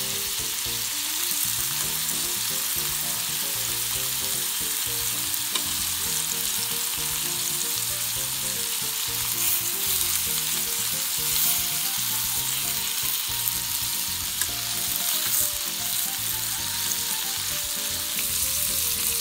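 Pork-wrapped tomato rolls sizzling steadily in oil in a frying pan.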